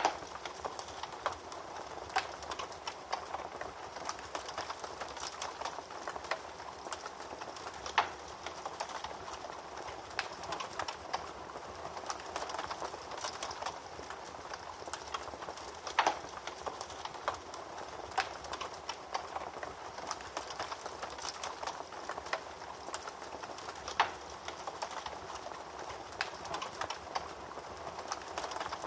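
Wood fire crackling in a fireplace: a steady stream of small crackles, with a sharper, louder pop standing out every eight seconds or so.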